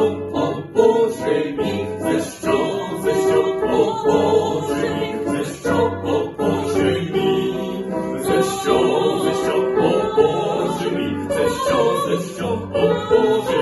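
Voices singing in an operetta ensemble with orchestral accompaniment.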